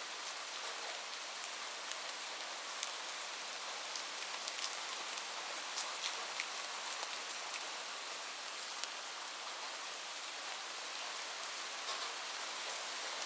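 Steady rain falling on a roof, an even hiss with many separate drops ticking sharply through it. No thunder.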